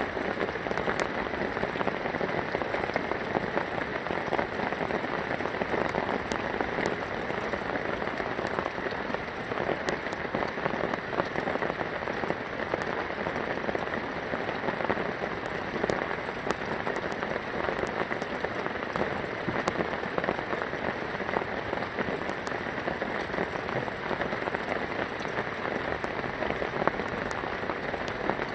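Steady rain falling, many small drop hits sounding without pause.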